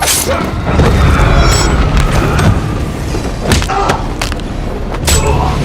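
Movie fight-scene sound mix: about six hard impacts and thuds, some with a brief ring after them, over a steady low rumble, with the film score underneath.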